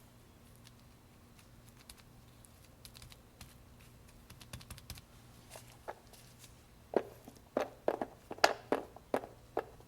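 Faint scattered clicks, then from about seven seconds in a run of sharp knocks, two or three a second, from kitchen handling while garlic is prepared for storage.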